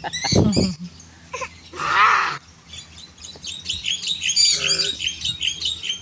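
Caged birds chirping: a louder, harsher call about two seconds in, then a run of quick high-pitched chirps through the second half.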